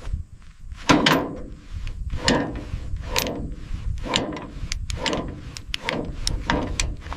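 Steel tie-down chains clanking as they are tightened to secure a truck on a flatbed trailer: a string of irregular knocks and short rattles, one or two a second.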